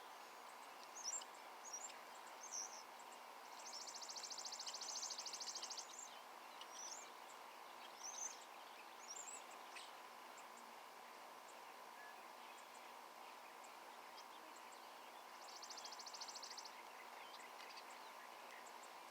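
Small songbirds calling: scattered short, high chirps, and two rapid, high, buzzy trills, the first about three and a half seconds in and lasting about two seconds, the second shorter, near the end. A faint steady hum runs underneath.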